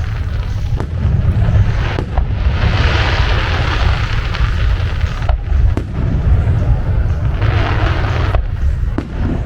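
Fireworks display: a continuous low rumble of booms, with sharp bangs about a second in, at two seconds, twice between five and six seconds and near the end, and two stretches of hissing crackle in between.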